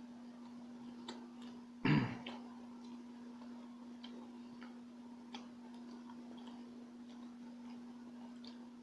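Close-miked eating of a turon: scattered small chewing and mouth clicks, with one short, louder bite or mouth sound about two seconds in. A steady low hum runs underneath.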